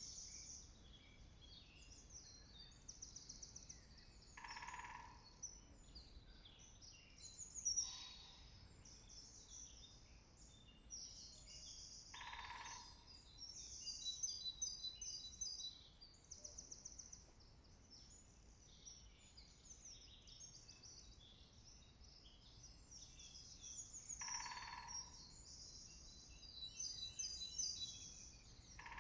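Faint woodland birdsong: several songbirds singing at once in high, overlapping phrases. A lower, harsher call comes in about five times, each lasting under a second.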